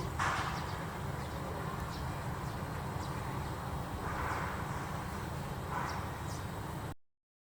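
Outdoor ambience: a steady low rumble with a few soft swells of noise, cutting off abruptly near the end.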